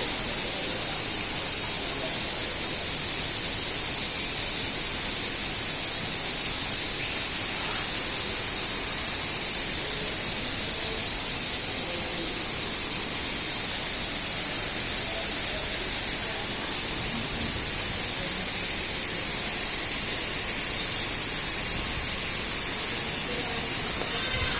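Steady, even hiss of constant background noise, brightest in the upper range, with faint voices in the background.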